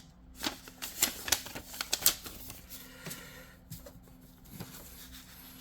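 Paper flyers being handled: a series of light crisp clicks and rustles, busiest in the first two seconds and sparser after.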